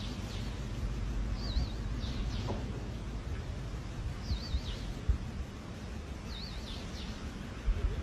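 A bird calling repeatedly, a short high wavering note about every two seconds, over steady outdoor background noise with a few low thumps.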